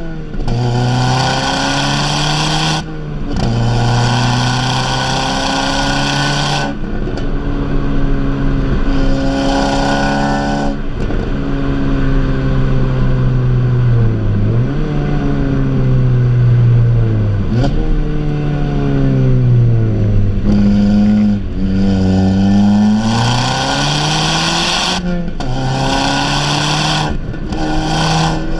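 Tuned Audi S3 8P's turbocharged 2.0-litre four-cylinder accelerating hard through the gears, heard from inside the car: the engine note climbs in pitch in several pulls, each cut by a brief break at the gear change. In the middle the revs fall and wander for several seconds before it pulls up through the gears again near the end.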